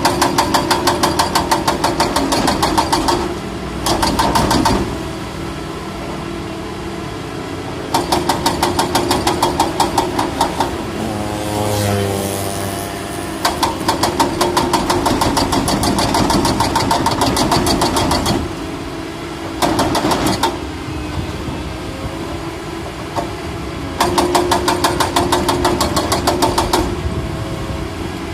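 Excavator's diesel engine running, with repeated bursts of a few seconds where it rises into a rapid, even pulsing beat, about seven a second, before settling back to a steadier run; a brief wavering whine around the middle.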